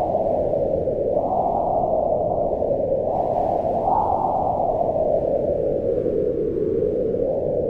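Low, moaning wind that blows continuously and swells and falls in slow gusts, rising in pitch about a second in and again about four seconds in.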